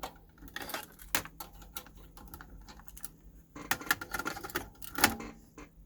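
A series of sharp mechanical clicks and light clattering in two clusters, with the loudest knock about five seconds in.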